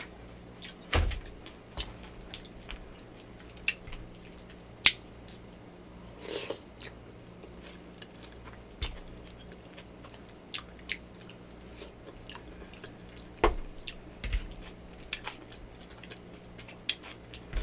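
Close-miked chewing and wet mouth sounds of someone eating yakamein noodle soup, with scattered sharp clicks and smacks a second or two apart.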